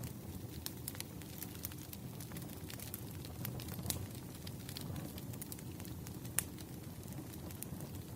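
Wood fire crackling: irregular sharp pops and snaps over a low, steady rumble of burning logs, with one louder pop about six seconds in.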